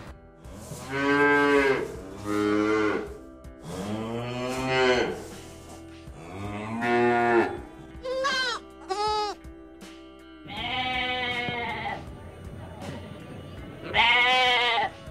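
A bull lowing in four short calls, then goats bleating: two high, wavering bleats, a longer bleat and one more near the end.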